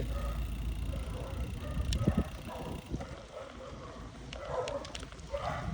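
Wind and road rumble on the microphone of a moving bicycle, with dogs barking a few times.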